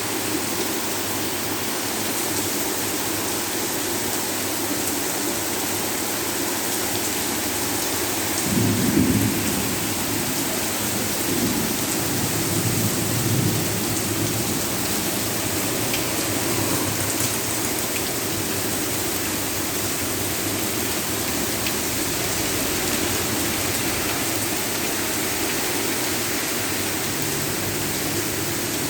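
Heavy rain falling steadily. A low rumble of thunder comes about nine seconds in, and a longer, weaker one a few seconds later.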